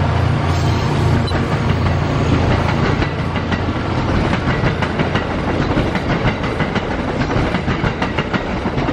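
NJ Transit commuter train passing close by. A heavy low rumble from the locomotive that has just gone past fades over the first few seconds. After that comes the rattle and clickety-clack of the passenger coaches' wheels on the rails as the cars stream past.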